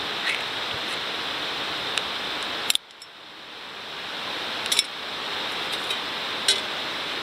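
Wood fire in a fire pit crackling with a few sharp pops over a steady rushing background noise. The noise drops out suddenly about a third of the way in and swells back over the next two seconds.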